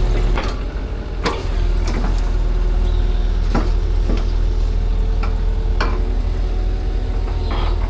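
A large vehicle engine running steadily with a low drone, with a series of sharp knocks and clanks scattered over it.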